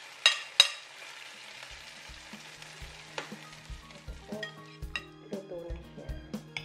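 Beaten egg and potato mixture sizzling as it is poured into a hot oiled frying pan, with two sharp knocks against the pan in the first second. The sizzle dies away and background music with a steady beat comes in about two seconds in.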